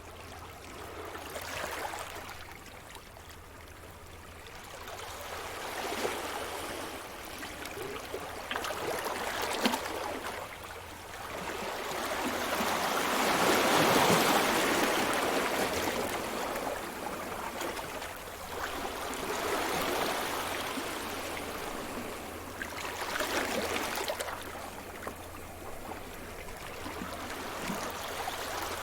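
Sea surf: waves breaking and washing up the shore, the rushing noise swelling and falling away several times, loudest about halfway through.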